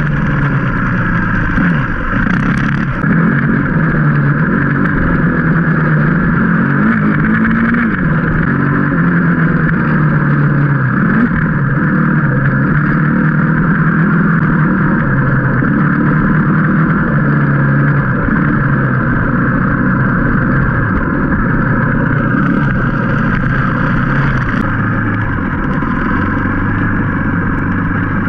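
Dirt bike engine heard close up from on the bike while riding, its pitch rising and falling over and over with the throttle and gear changes.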